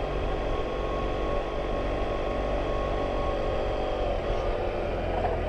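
Motorcycle engine running at a steady speed while riding, a constant hum with low rumble.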